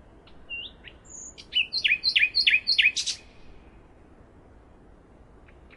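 A songbird singing: a few short chirps, then a quick phrase of about five repeated notes, each sweeping down in pitch, lasting about a second and a half. After it comes a lull with faint chirps near the end.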